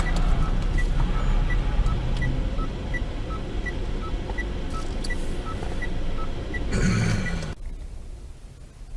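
Low rumble of a car heard from inside the cabin, with an electronic beep that alternates between a higher and a lower tone, about three beeps every two seconds. Beep and rumble cut off suddenly about seven and a half seconds in, leaving a much quieter stretch.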